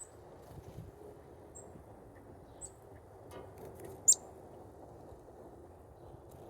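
Small birds chirping at a feeder: a few short, very high chirps, with one loud, sharp chirp about four seconds in that sweeps down in pitch, over a faint low background hum.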